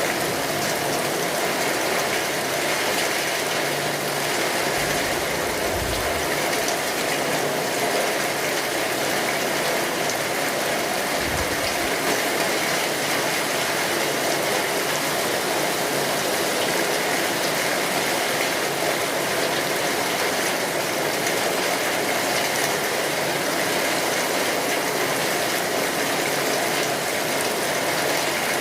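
Steady rain pattering on a tin roof, a dense, even hiss of drops. Two brief low rumbles come through, about five and eleven seconds in.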